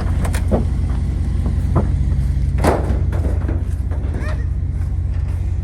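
Steady low rumble of a motor vehicle on the move, with a few light knocks and clicks over it.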